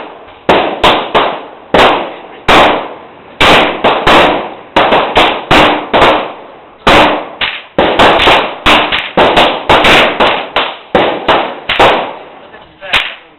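Pistol shots at a shooting range, fired in an irregular string of about two a second, each sharp crack trailing off in an echo.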